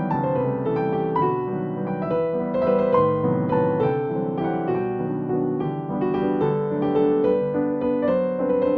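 Background piano music, a continuous flow of notes at an even level.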